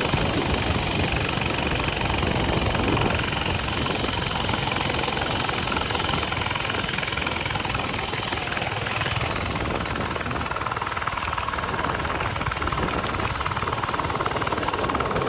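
Coleman mini bike's small single-cylinder engine running steadily under way, with rushing air noise on the microphone from the ride.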